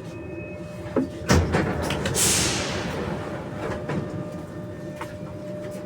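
Inside an NS-93 metro car, a sharp knock about a second in, then a hiss of compressed air that fades out over a few seconds, over the steady hum of the car's equipment.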